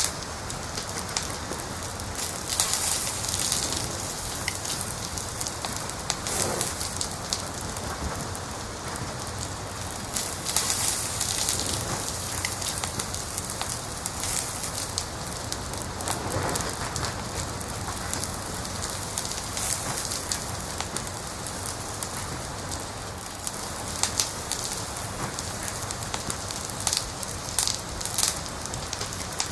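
Wood fire crackling, with many sharp pops and snaps over a steady hiss, and a few louder flurries of crackles.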